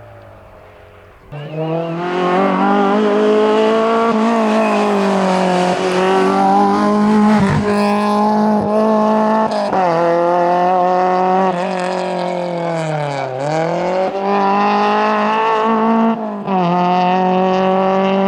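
Rally car engine at full throttle, coming in suddenly about a second in and held high in the revs. Around two-thirds through the pitch dips sharply and climbs straight back, with another brief lift near the end.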